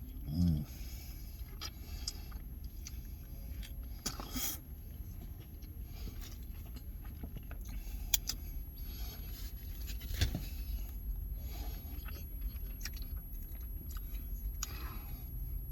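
A person eating poutine: chewing, with occasional scraping and sharp clicks. There is a short hummed "mm" about half a second in, over a steady low rumble.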